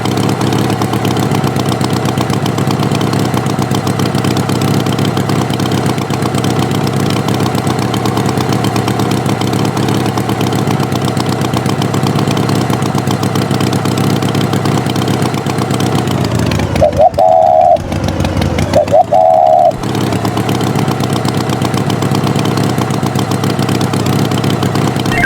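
Tractor engine running steadily. About two thirds of the way through, two short, loud higher tones sound about two seconds apart.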